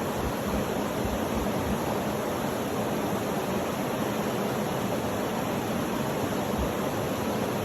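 Steady, even rushing noise that does not change, played as a sleep sound.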